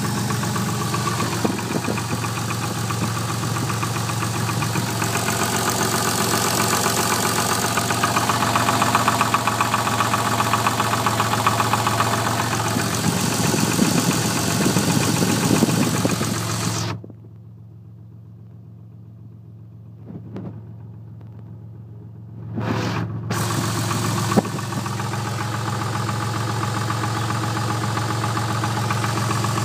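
Twin-turbo Toyota Supra's 2JZ-GTE inline-six idling steadily with a knock that the owner suspects is piston slap. A little past the middle the sound turns muffled and much quieter for about five seconds, then comes back to full level.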